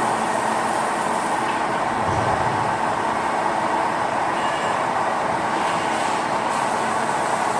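CNC lathe running, a steady, even mechanical noise of the machine at work.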